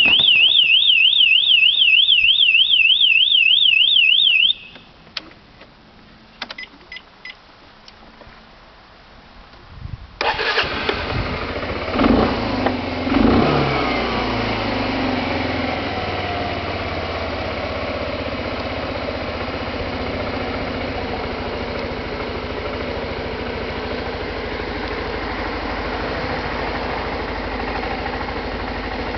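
A warbling electronic alarm tone for about four and a half seconds, then a few short beeps and clicks. About ten seconds in, the Suzuki Skywave 250's single-cylinder engine starts, revs up briefly twice and settles into a steady idle.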